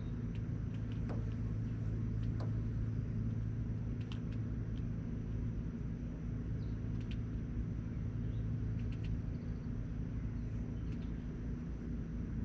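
Steady low rumble with a constant hum, like distant traffic or a motor, and scattered short, high chirps and ticks over it.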